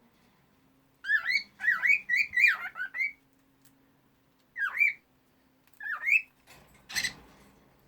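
Female cockatiel singing: a run of quick rising and falling whistled notes for about two seconds, then two short single whistles, and a brief harsh scratchy note near the end.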